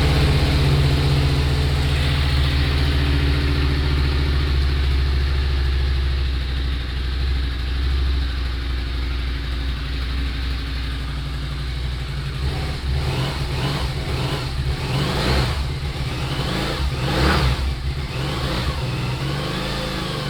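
2006 Harley-Davidson VRSCD Night Rod's liquid-cooled Revolution V-twin idling on its stock exhaust just after starting, then blipped several times in the second half, the revs rising and falling. Very quiet with no bass, a little tinny.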